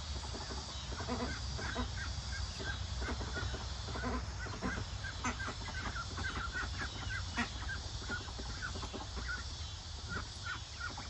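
A flock of young chickens making many short, overlapping peeps and soft calls as they settle to roost for the night, over a steady low hum.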